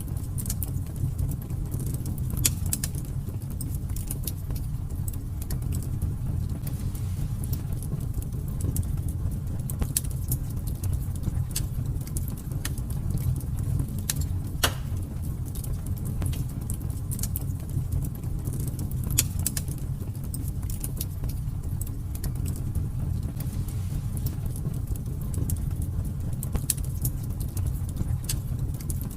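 Fire burning in a fireplace: a steady low rumble of flames with irregular crackles and pops throughout, and a few sharper snaps standing out, one near the middle.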